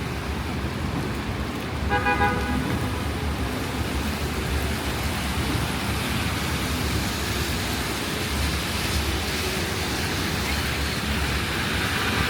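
Steady city street traffic and rain noise, with one short car horn toot about two seconds in.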